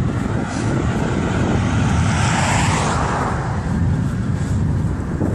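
A vehicle passing on the road, its tyre and engine noise swelling to a peak about two to three seconds in and then falling away, over a steady low wind rumble on the microphone.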